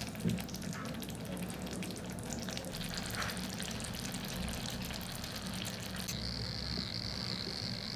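Food sizzling and crackling as it fries in a tiny miniature-kitchen pan, with a steady low hum underneath. About six seconds in the crackle settles into a steadier high hiss.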